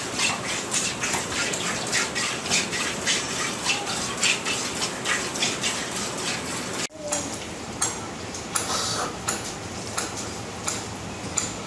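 Cow being milked by hand: quick, rhythmic squirts of milk, about three a second, with a brief break about seven seconds in.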